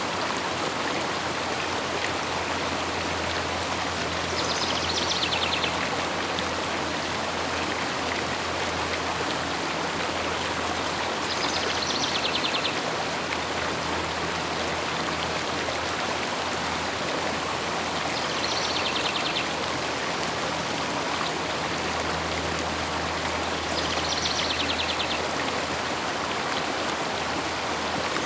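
River water flowing steadily. A short, rapid trilled bird call rises above it four times, about every seven seconds.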